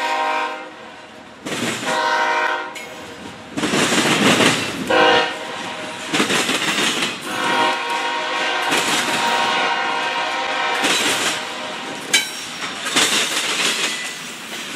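Double-stack intermodal freight train rolling past, its wheels clattering and rushing in bursts as the well cars go by. The lead BNSF locomotive's multi-chime air horn sounds several blasts over it, one of them short.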